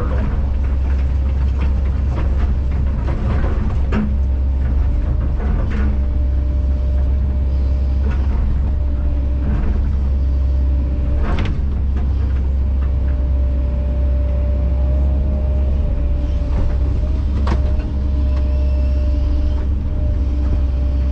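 Kobelco SK210 excavator's diesel engine running steadily with a constant whine, broken by several sharp knocks as the machine works.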